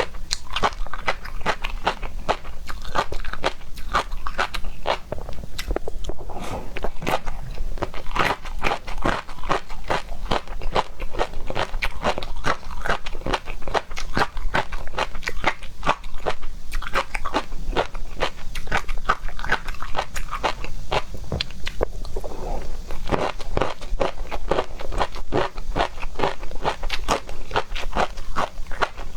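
A person chewing and biting into seafood, a dense, unbroken run of crunches.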